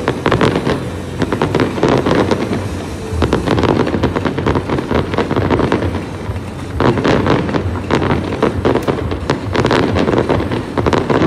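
Fireworks going off: a dense run of rapid crackling and popping with heavier booms underneath. It thins briefly about six seconds in, then picks up again.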